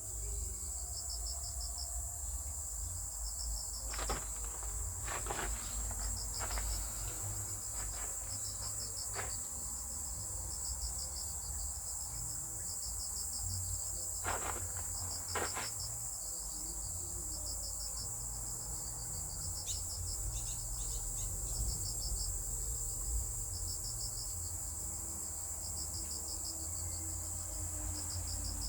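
Insects chirping: short pulsed chirps repeating about every second or two over a steady high trill, with a few faint clicks.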